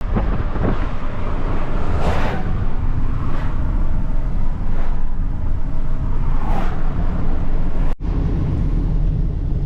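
Steady low rumble of a moving vehicle mixed with wind noise. Broad whooshes swell up every second or two, and the sound cuts out for a moment near the end.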